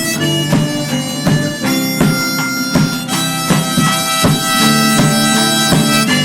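A live band playing an instrumental passage between sung lines: sustained lead notes over a steady beat.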